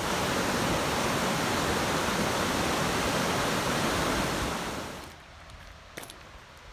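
Rushing water, a loud steady hiss that starts suddenly and fades out about five seconds in, followed by quiet footsteps on the trail.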